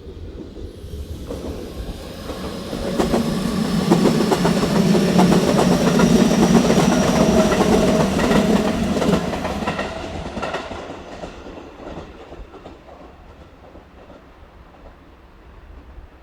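Electric train running past along the station track, its wheels clattering over rail joints with a faint steady whine. It grows louder over the first few seconds, is loudest in the middle, and fades away after about ten seconds.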